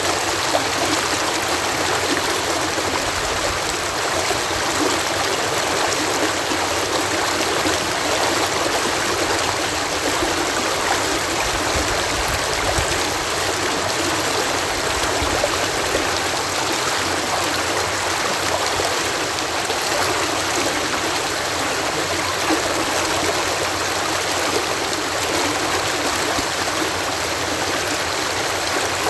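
Water cascading over a canal lock, a steady, unbroken rush of falling and splashing water.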